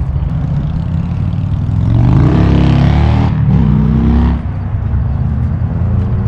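A car engine running and revving, its pitch rising twice between about two and four seconds in before dropping back to a steady run.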